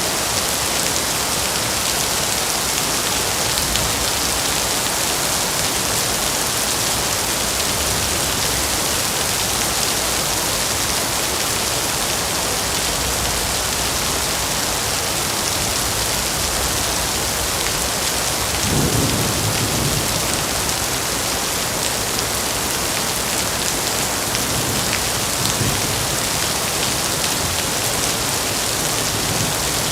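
Heavy rain falling steadily in a dense, even hiss. A brief low rumble swells up about two-thirds of the way through.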